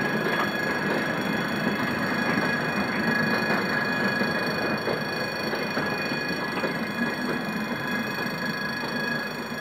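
Passenger train coaches rolling past at close range: a continuous rumble of steel wheels on the rails, with scattered clicks at the rail joints and a steady high-pitched whine.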